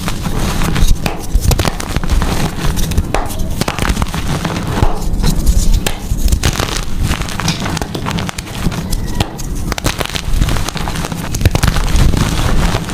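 Blocks of gym chalk being crushed and crumbled: a dense, continuous crackling crunch of many small snaps, over a steady low rumble.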